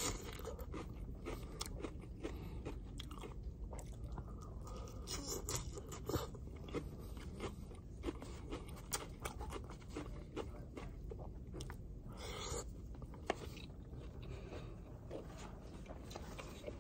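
Close-up chewing of a mouthful of raw shredded leafy greens, with many small crisp crunches and clicks coming irregularly.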